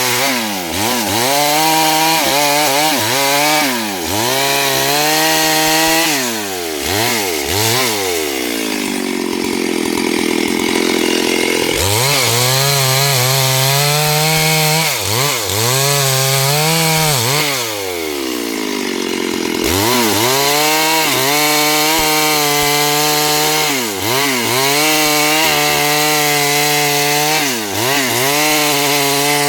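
A STIHL 72cc two-stroke chainsaw cutting wood, running continuously. Its engine note dips and recovers again and again as the chain bites. It drops to a lower pitch for a few seconds about a third of the way in and again past the middle.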